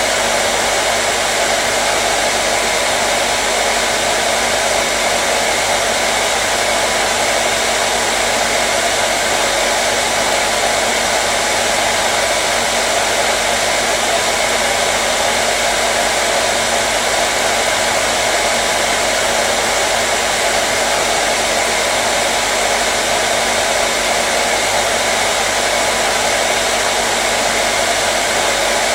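Hair dryer running continuously at a steady speed, a constant rushing whoosh with a faint motor hum and no change in pitch or level.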